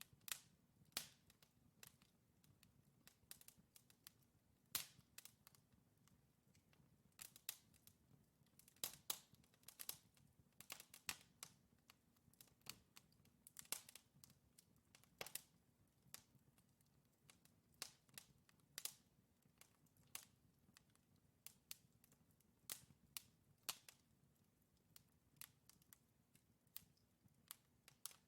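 Wood fire crackling in a fireplace: burning logs giving off irregular sharp pops and snaps, a few each second, over a faint low rumble of the flames.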